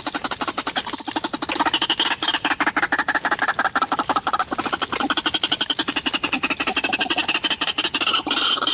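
White-breasted waterhen calls: a loud, unbroken run of rapid harsh notes, about ten a second, shifting in pitch as it goes.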